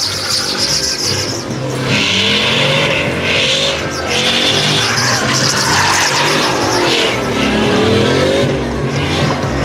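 A truck engine revving up and down while its tires squeal and spin in a burnout, the squeal surging and easing every second or so.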